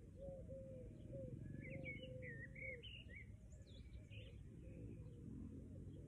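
Faint birdsong: a low note repeated about twice a second over the first three seconds, with higher chirps and short trills from a small songbird around the middle.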